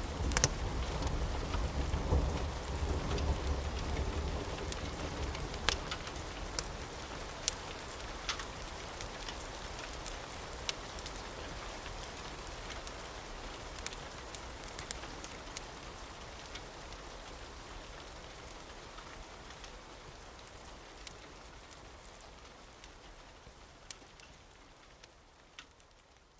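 Steady rain with scattered sharp clicks, and a low rumble of thunder in the first few seconds. The whole sound fades slowly away toward the end.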